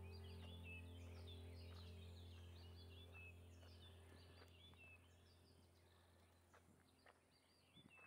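Faint birds chirping over and over above a steady low droning hum that slowly fades away. A few footsteps on the path come near the end.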